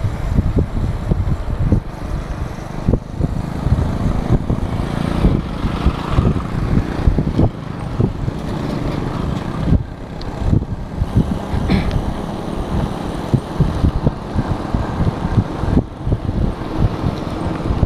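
Wind buffeting the microphone of a camera on a moving bicycle: a steady low rumble with irregular gusty thumps.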